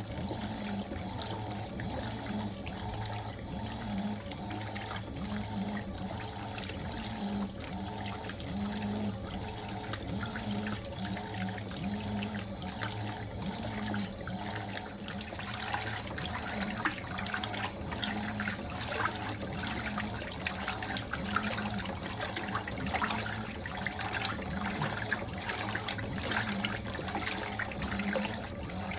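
Fisher & Paykel MW059NZ washing machine with water running and splashing in the drum, over a low hum that swells about once a second. The splashing grows busier from about halfway through.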